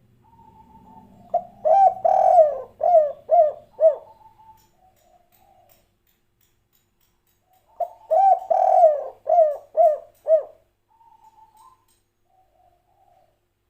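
Spotted dove (tekukur) singing its cooing song twice. Each phrase is a drawn-out coo followed by three short clipped 'kuk' notes, the 'kuk 3' pattern prized by Indonesian bird keepers.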